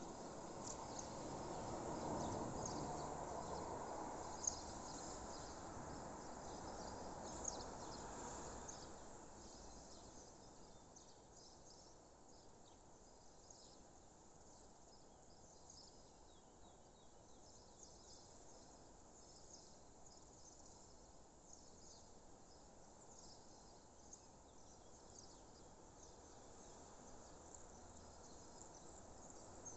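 Faint dawn countryside ambience: scattered short, high bird chirps and insect sounds over a steady low background rumble that eases off about nine seconds in, with two sharp ticks in the first half.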